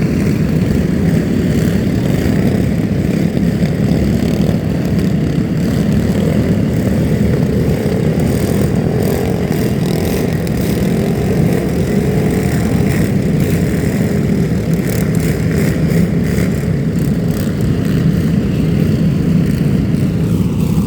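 Motor vehicle running steadily, a continuous loud engine and road rumble.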